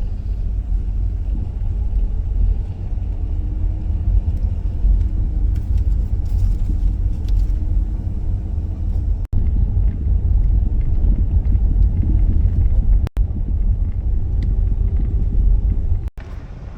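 Dodge Grand Caravan minivan driving: a steady low rumble of engine and road noise, broken by three very short dropouts.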